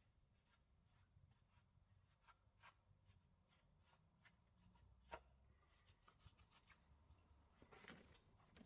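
Near silence with faint, irregular scratching and ticking, and one sharper click about five seconds in: hand scrubbing of the engine block's sump gasket mating surface.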